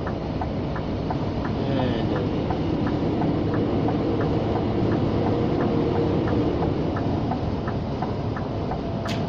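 Cab interior of a Scania G460 lorry on the move: the 13-litre straight-six diesel running steadily under road and wind noise, with a light, even ticking about three times a second and one sharp click near the end.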